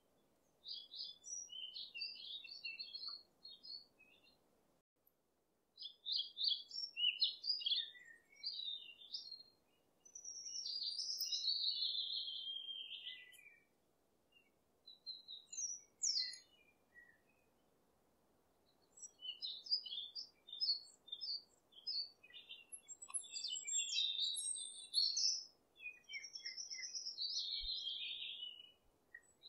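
Songbirds singing: runs of quick chirps and trills in several phrases separated by short pauses, over a faint steady hiss.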